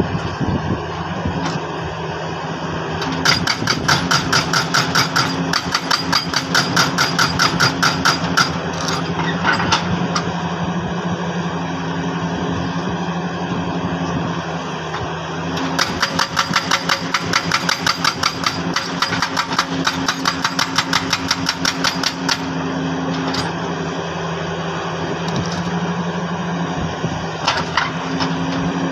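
Jackhammer breaking hard rock in two long runs of rapid, even blows, with a pause between them. An engine runs steadily underneath throughout.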